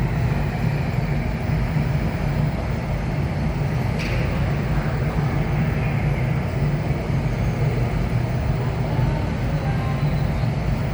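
Steady roar of a large indoor waterfall, the Rain Vortex at Jewel Changi, a heavy column of falling water with a deep rumble underneath.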